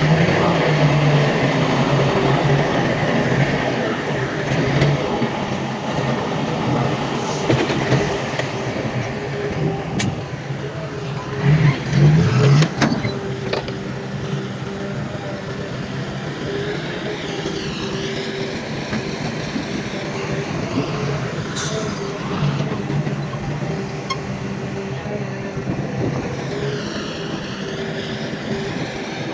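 Heavy diesel construction machinery (bulldozer and dump trucks) running steadily, with a few sharp clanks partway through.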